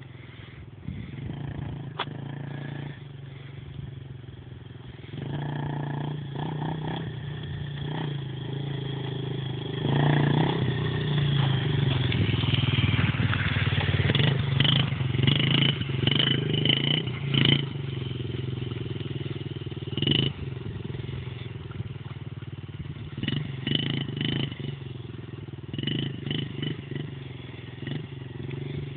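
Dirt bike engine running, its revs rising and falling. It gets louder about five seconds in and again about ten seconds in, and is loudest through the middle before easing off.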